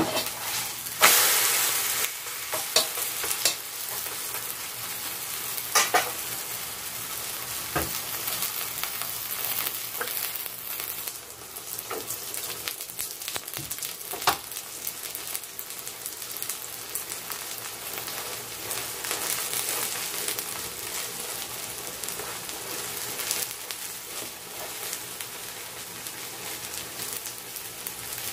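Vegetable pancake sizzling in hot oil in a frying pan: a steady frying hiss, loudest for roughly the first ten seconds and then settling a little, with a few sharp clicks of a metal spatula on the pan.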